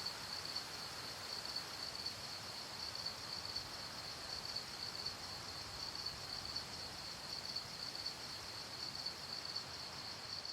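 Crickets chirping steadily, a high pulsing trill about twice a second, over a faint background hiss.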